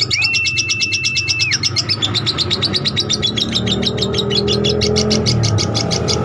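Lovebird in a long ngekek: a fast, unbroken chatter of sharp high chirps, about ten a second, held without a pause.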